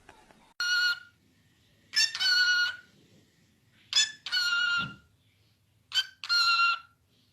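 A parrot calling four times, about two seconds apart: each call a short note followed by a longer one, in a rooster-like pattern.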